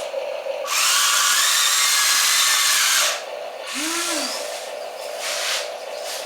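Small electric motor and gearbox of a model excavator whining loudly for about two and a half seconds as the machine works, then a brief whine that rises and falls in pitch, over a steady low hum.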